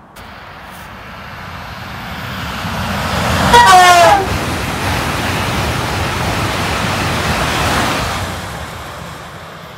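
Southeastern Class 395 'Javelin' electric train passing: its rush builds, a short horn blast about three and a half seconds in falls in pitch as it goes by, then the steady noise of the passing carriages fades near the end.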